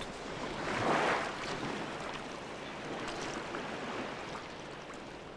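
Sea water washing, a wave swelling about a second in and then a steady wash.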